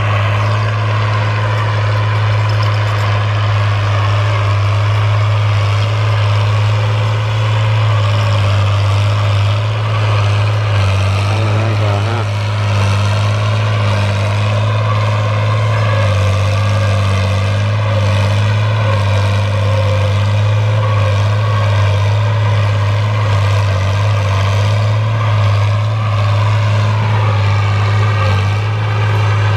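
Fiat 1000 DT Super tractor's diesel engine running steadily under load while plowing, a constant low drone. Its pitch dips briefly near the end.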